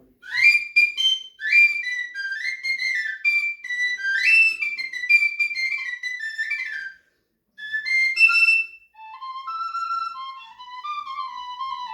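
Sapel, a Russian folk whistle flute in G major with mixolydian tuning (small sixth hole), playing a lively tune of short, tongued notes in its high register. After a brief pause it plays a second phrase in the lower register.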